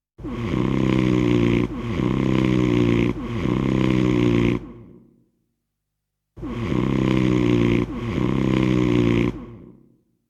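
Snoring sound effect: two bouts, each of three snores about a second and a half long in a row, with a pause of about two seconds between the bouts.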